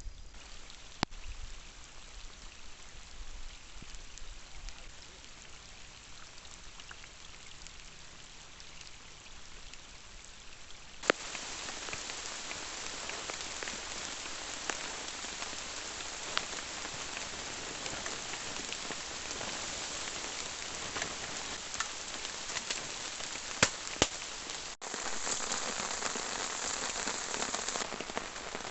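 Rain falling, a steady patter of drops with scattered sharper taps. It gets suddenly louder about eleven seconds in and again a few seconds before the end.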